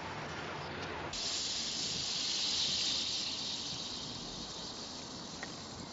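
A steady, loud hiss that starts suddenly about a second in and slowly fades.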